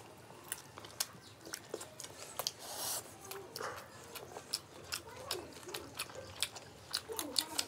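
People chewing and eating fried rice and chilli chicken by hand, close to the microphone: many quick wet mouth clicks and smacks. There is a short breathy rush about three seconds in.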